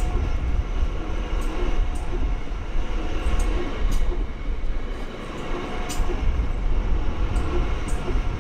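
A High Capacity Metro Train, a Melbourne electric suburban train, rolls past with a steady low rumble. Pairs of sharp clicks come about every two seconds.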